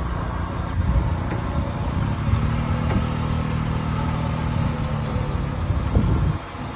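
A heavy vehicle engine running steadily, with a low hum that holds for a few seconds in the middle. The sound drops off sharply near the end.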